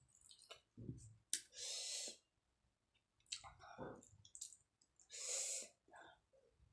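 Close-miked mukbang eating sounds: wet chewing and mouth clicks from a hand-fed mouthful of rice and mustard greens, with two longer breathing sounds, one about a second and a half in and another about five seconds in.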